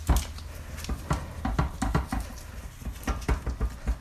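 Irregular light knocks, taps and rustles of hands working dough on a kitchen counter.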